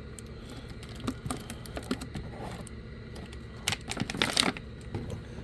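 Handling noise of a boxed fireworks kit: irregular clicks, taps and short rustles of packaging being moved and turned over, with a louder burst of crinkling about four seconds in.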